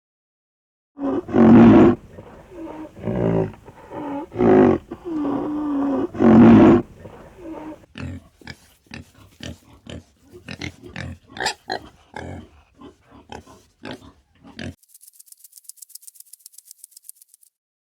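An animal calling: a string of loud, pitched calls, then a run of short clicks and grunts, then a fast, even, high rattle lasting a couple of seconds near the end.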